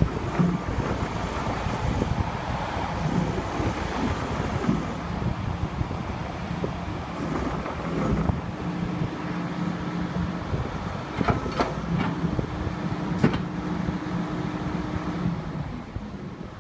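Ingersoll Rand ZX125 excavator's diesel engine running, settling into a steady low hum from about halfway in. There are a few sharp clicks or knocks about two-thirds of the way through.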